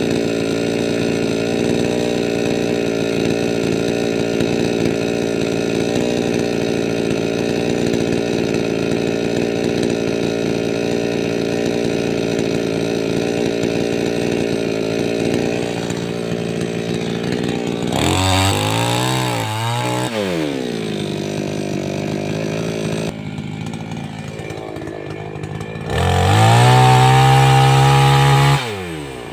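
A 588X chainsaw's two-stroke engine running steadily under load through a cut for the first half. About 18 seconds in it revs up and falls back to idle, and near the end it is revved hard for about three seconds, the loudest part, before dropping back.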